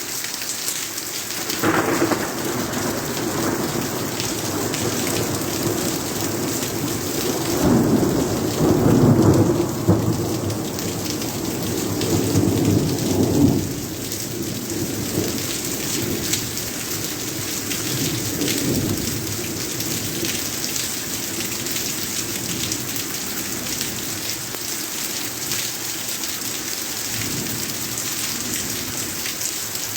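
Steady rain falling, with rolling thunder: a short rumble about two seconds in, a long, louder peal from about seven to fourteen seconds, and a fainter rumble near nineteen seconds.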